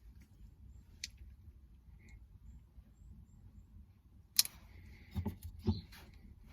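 Light handling sounds as cardboard and a plastic RC car body are moved about: a faint click about a second in, a sharp click about four and a half seconds in, then two soft knocks.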